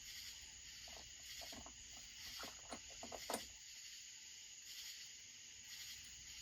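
Faint clicks and taps of small metal parts being handled as a block-off plate is fitted onto a chainsaw, several light knocks in the first half with the sharpest near the middle, over a steady high hiss.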